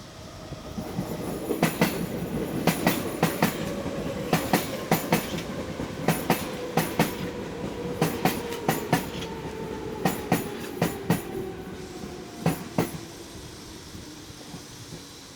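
Athens Metro train passing, its wheels clicking over rail joints in pairs and small groups over a steady rumble, with a motor whine that falls slowly in pitch; the sound swells about a second in and dies away near the end.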